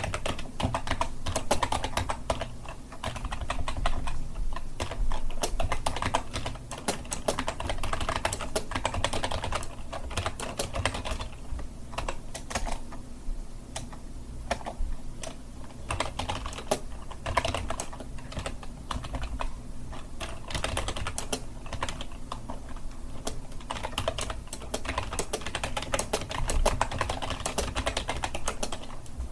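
Continuous typing on a computer keyboard: a dense, irregular run of key clicks, thinning briefly now and then.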